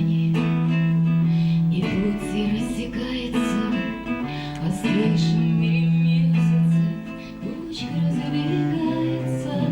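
Instrumental break in a song: acoustic guitar strumming under long held low cello notes.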